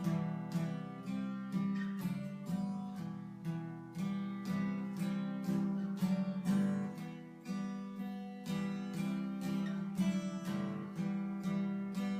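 Instrumental break of a country-style song: strummed acoustic guitar chords in a steady rhythm, with no singing.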